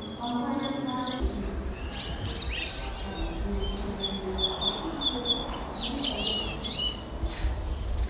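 Songbirds chirping and singing in runs of short high repeated notes, busiest in the second half, over a steady low rumble of outdoor background noise.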